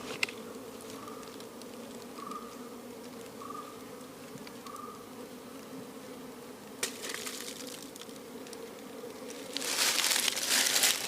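Honeybees buzzing steadily around an opened colony as the comb is cut out. A loud rustling, scraping burst of handling comes near the end.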